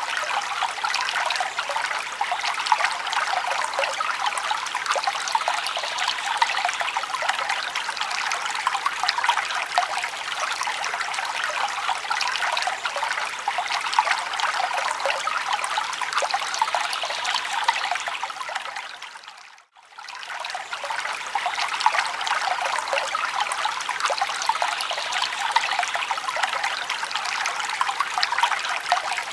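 Forest stream trickling, a steady light rush of water with little low rumble. It fades out for a moment and back in about two-thirds of the way through.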